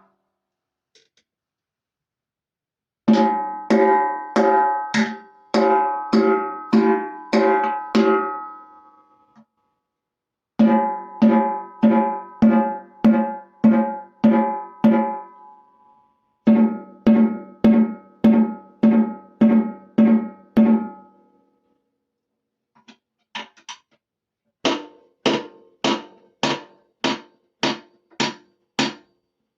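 Timbales struck in runs of evenly spaced single strokes, about two a second, each stroke ringing on briefly. There are four runs, separated by pauses of a second or two, and the last run is slightly faster.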